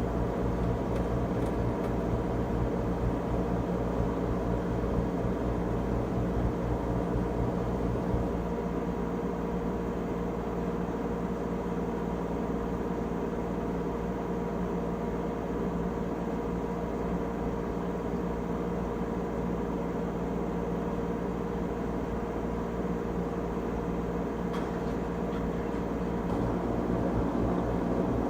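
LG Tromm WD-CR101C front-loading drum washing machine running its quick-wash cycle: a steady motor hum with several held tones over a low rumble. The rumble drops off about 8 seconds in and comes back near the end.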